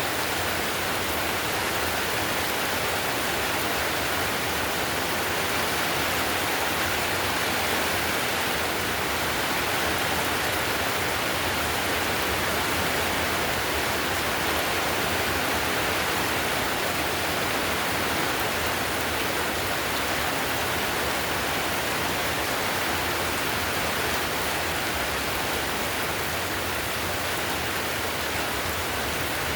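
Heavy rain drumming steadily on a clay-tile roof, a dense even hiss of drops with no let-up.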